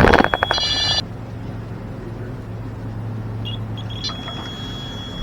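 Carp bite alarm sounding a steady high tone over a fast run of reel clicks as a fish takes line; it cuts off about a second in, and the alarm tone sounds again near the end.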